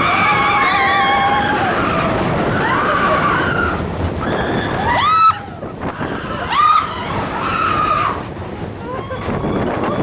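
Mine-train roller coaster of Big Thunder Mountain Railroad rumbling and rattling along its track, with riders whooping and screaming several times over it. The rumble drops off suddenly about five seconds in.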